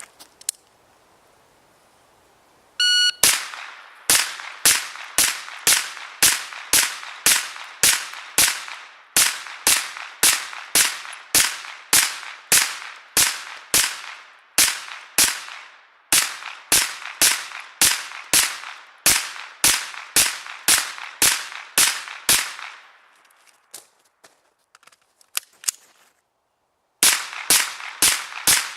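A shot timer's start beep, then rapid semi-automatic fire from a Rock River Arms LAR-9 9mm AR-style carbine, about two shots a second. The firing breaks off for about four seconds near the end, with a few faint clicks, then resumes.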